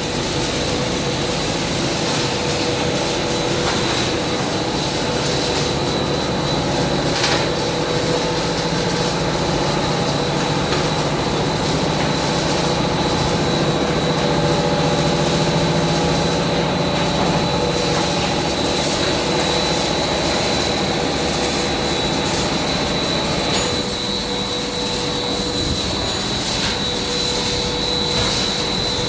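Industrial machinery of a coconut shell carbonization line running steadily: a continuous mechanical drone with a steady high whine over it.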